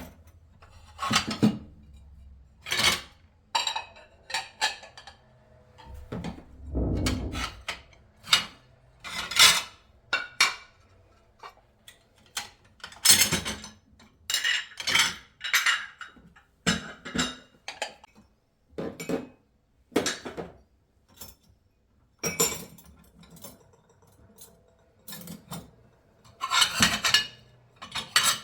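Dishes and cutlery being handled: a long, irregular run of sharp clinks and knocks of crockery, glass and metal utensils, some ringing briefly.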